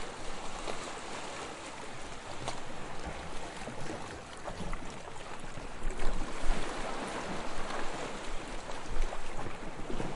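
Soft waves lapping on a sandy shore: a steady wash of water with small crackling ticks, swelling louder about six seconds in and again near nine seconds.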